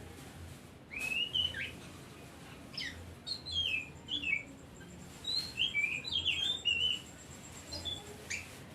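Oriental magpie-robin (kacer) singing: a run of short, varied whistled notes that slide up and down in pitch, starting about a second in, with a faint thin high trill behind them in the second half.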